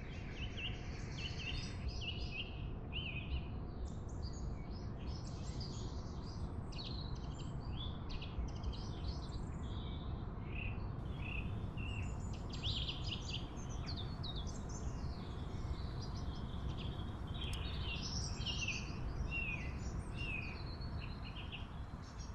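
Several birds chirping and singing in quick, overlapping phrases, over a steady low rumble of outdoor background noise.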